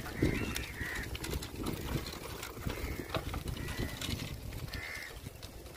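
Birds calling outdoors: a few short, arched calls, two or three in the first second and another near the end, over a low wind rumble on the microphone.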